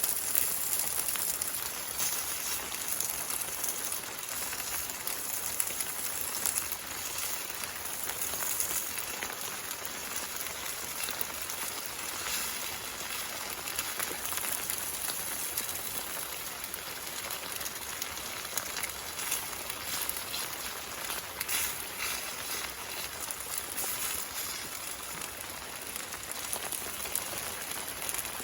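Steady rain falling on a camping tarp overhead: an even hiss with many small ticks of drops.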